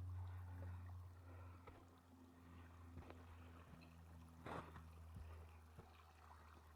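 Faint low steady rumble with a few scattered crunches of footsteps on icy snow, the clearest about four and a half seconds in.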